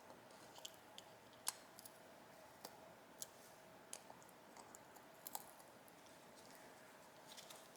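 Faint, scattered clicks and light taps at irregular intervals as small tools and parts of a disassembled motorcycle carburetor are handled, over a faint steady hum.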